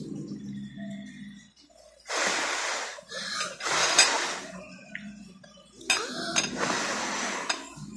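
Close-up eating noise: crunching and chewing of crispy fried pork skin in three spells of about a second each, with small clicks and a sharp click about four seconds in.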